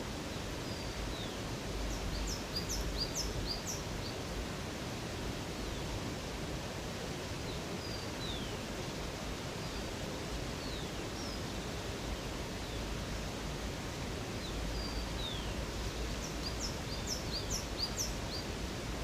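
Steady rush of river water with birds chirping over it: a quick run of short, high, falling notes about two seconds in and again near the end, with scattered single chirps between.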